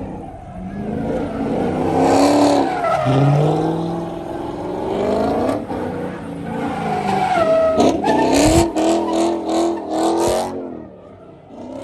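A car engine revving hard up and down while its tires squeal and skid, with a choppy stretch of pulses near the end before it fades.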